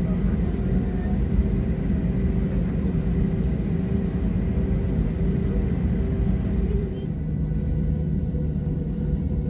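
Steady low rumble of an Airbus A321-200 cabin with the jet engines running, heard from an economy window seat: a dull roar with a constant hum over it. About seven seconds in, the higher hiss drops away and the hum shifts to a lower pitch.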